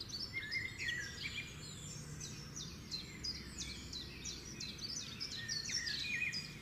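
Several birds chirping and singing at once: many short, overlapping high calls.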